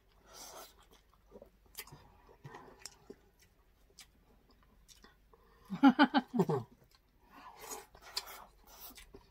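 Close-miked chewing and mouth clicks of people eating grilled meat and rice with their hands. About six seconds in, a short voiced sound from one of the eaters is the loudest thing.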